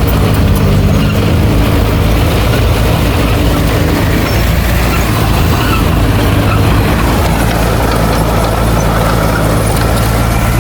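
Heavy diesel engine of earthmoving machinery running loud and steady, its pitch shifting slightly a few times as the load or throttle changes.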